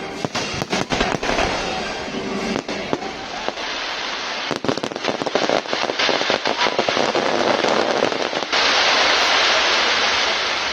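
Fireworks display: rapid, overlapping bangs and crackles from fireworks going off, with music underneath. About eight and a half seconds in, this gives way suddenly to a loud, even hiss.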